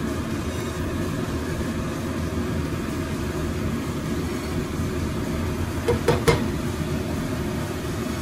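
Chicken pieces frying in spiced oil in a stainless steel pot, stirred with a spatula, over a steady low rumble. About six seconds in come three or four quick knocks, the spatula tapping against the pot.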